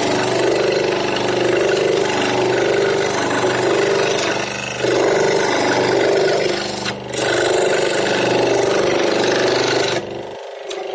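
An electric power tool cutting or shaping wood, its motor running steadily. The sound swells and fades about once a second as the tool works the wood, then stops abruptly near the end.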